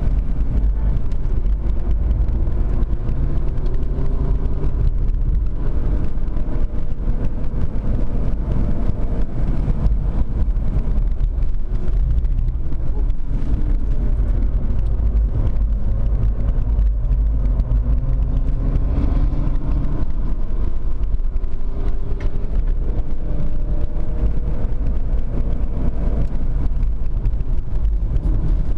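BMW 325d's straight-six turbodiesel heard from inside the cabin, working hard on a track lap, its pitch rising and falling repeatedly as it accelerates and eases off. Heavy road and tyre rumble runs underneath.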